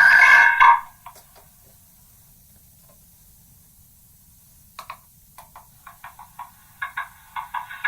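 Megaphone loudspeaker playing back a many-times re-recorded voice message that has eroded into artifacts: a loud, thin, buzzy tone cuts off under a second in, then after a near-quiet gap a run of short clipped clicks and chirps starts about five seconds in and grows denser.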